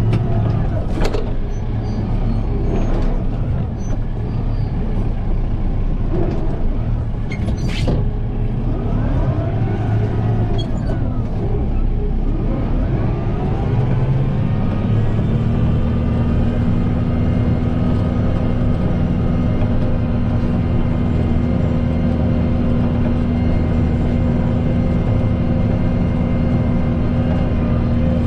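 Kubota M7060 tractor's diesel engine working, its pitch rising and falling as it revs up and down through the first half, with a couple of sharp clunks. About halfway through it settles to a steady, constant-speed run.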